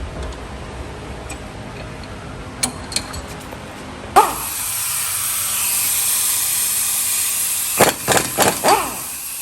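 Compressed-air tool work on the car: a few light clicks, then a sudden start about four seconds in and a steady high hiss of air. Near the end come several short loud bursts that rise and fall in pitch.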